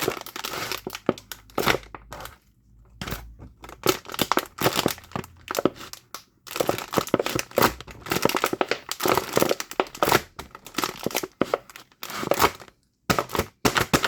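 Irregular crinkling and crackling handling noise in dense bursts, with a short quiet gap about two seconds in and brief pauses near the end.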